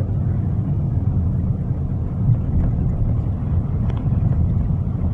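Steady low rumble of a car driving, heard from inside the cabin: engine and tyres on a snow-covered road.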